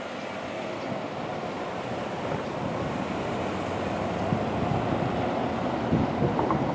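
Steady outdoor rushing noise of wind on the microphone and road traffic, slowly getting louder, with a few short knocks near the end.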